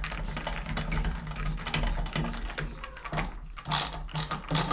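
Rapid ratcheting clicks, turning into louder, evenly spaced clicks, about two or three a second, near the end, as a fitting on the shower valve is tightened, over a low steady hum.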